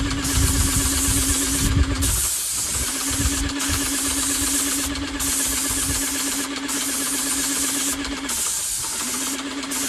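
Airless paint sprayer in use: the spray gun hisses as paint leaves the tip, with short breaks about every one and a half seconds as the trigger is let off between passes. Under it the pump motor hums steadily, stopping twice for under a second as it cycles.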